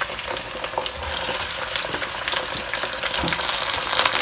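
Raw chicken pieces sizzling and crackling as they go into hot oil with fried onions, the frying growing louder toward the end as more pieces go in. A couple of soft thumps are heard about one and three seconds in.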